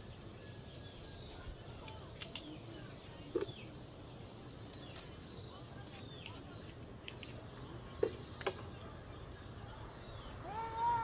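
Birds chirping now and then in short, high calls, with a couple of brief knocks. Near the end a louder, longer call with a steady pitch begins.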